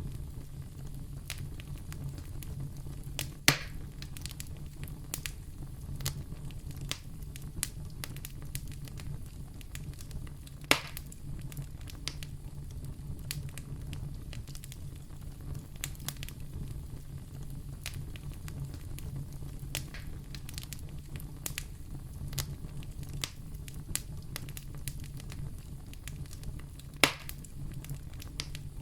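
Fire crackling in a fireplace: a steady low rumble with frequent small crackles, and three louder pops, about three seconds in, about eleven seconds in, and near the end.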